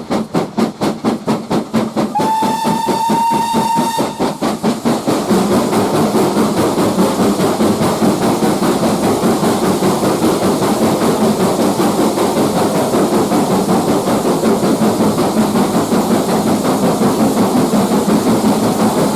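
BR Standard Class 4MT 2-6-4 tank steam locomotive 80151 working hard, its chimney exhaust beating in a rapid, even rhythm. Its steam whistle sounds once for about two seconds, a couple of seconds in. From about five seconds in, the exhaust beats grow louder and run together.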